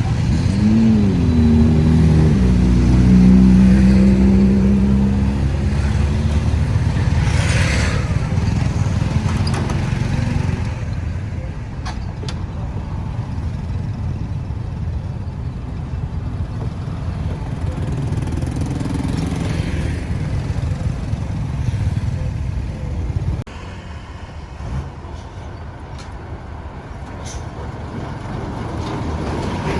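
Road traffic: a motor vehicle's engine wavers up and down in pitch in the first couple of seconds and then runs steadily for several seconds, giving way to an even wash of traffic noise that drops suddenly in loudness a little past two-thirds of the way through.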